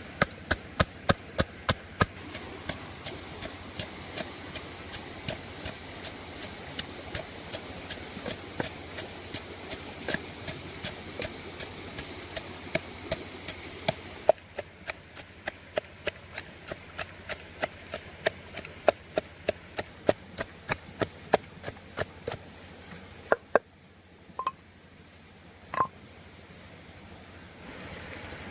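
A knife chopping on a wooden cutting board in sharp, steady strokes, about two to three a second, with the chopping thinning out to a few scattered strokes near the end.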